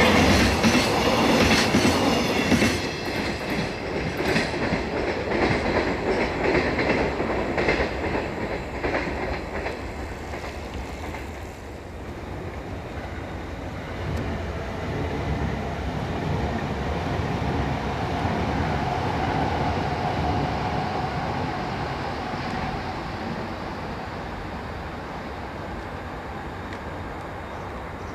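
Container freight wagons rolling past close by, their wheels clacking rapidly over the rail joints. The clatter fades over about ten seconds as the train runs away, leaving a low rumble.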